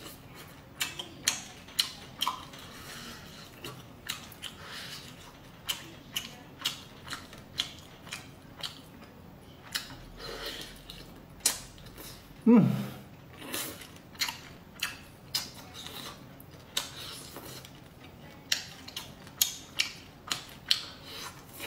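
Crunching and chewing of crisp deep-fried small fish, heard as a string of sharp, irregular crunches about one or two a second. A short voice sound falling in pitch comes about halfway through.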